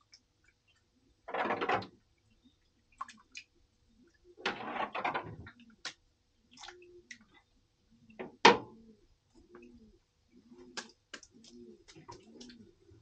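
A bird's low, arched call repeating about twice a second from about the middle on. Earlier there are two brief rushes of noise, and a single sharp knock, the loudest sound, comes about eight and a half seconds in.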